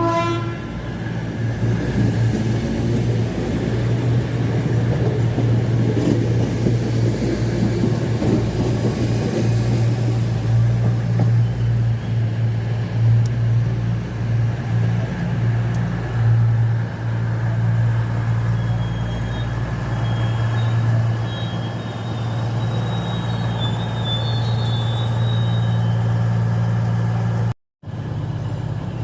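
A train at the station running with a steady low drone, cutting out for a moment near the end.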